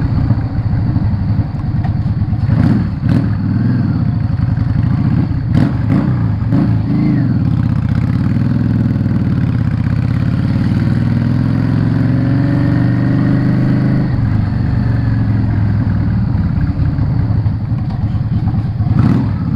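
Yamaha Drag Star 650's air-cooled V-twin running under way, its revs repeatedly dropping and rising as the bike slows and picks up again over the town's speed bumps, with a few knocks in between.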